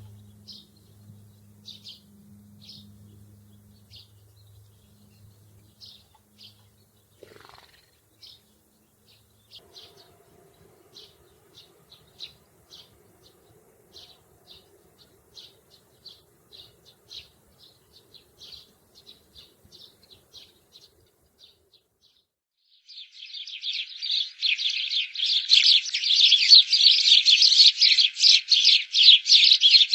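Short, high bird chirps repeated about twice a second, with a faint low hum beneath them at first. About 23 seconds in, a much louder, dense chorus of many chirping birds takes over.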